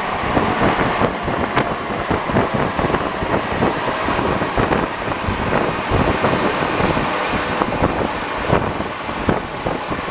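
Santiago Metro NS-74 rubber-tyred train running along the track: a steady rumble broken all through by many irregular knocks and rattles.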